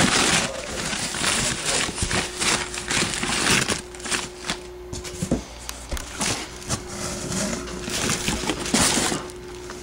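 Irregular rustling and scraping of handling noise with a few sharp clicks, under a faint steady hum from about two seconds in.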